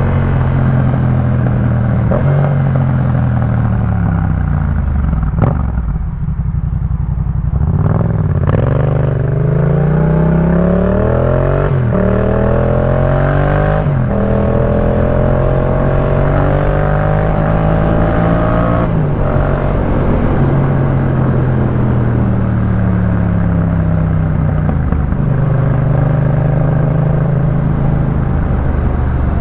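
Yamaha MT-07's 689 cc parallel-twin engine through a Jeskap K4 full aftermarket exhaust while riding. The revs climb in several quick steps through gear changes partway in, then drop as the bike slows, and it runs steadily near the end.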